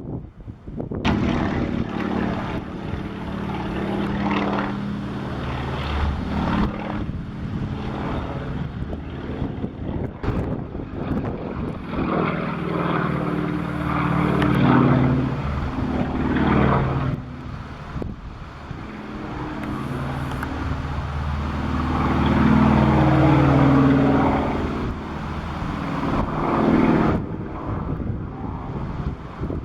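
Sukhoi Su-26MX aerobatic plane's nine-cylinder radial engine and propeller during an aerobatic display. The engine note rises and falls in pitch and loudness as the plane manoeuvres and passes, loudest about halfway through and again two-thirds of the way in, then fading near the end.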